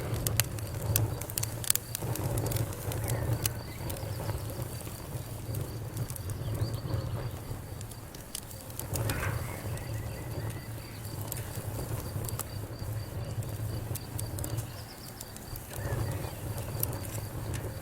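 Wood fire crackling: irregular sharp pops and snaps, thickest in the first few seconds, over a steady low rumble, with a faint steady high tone in the background.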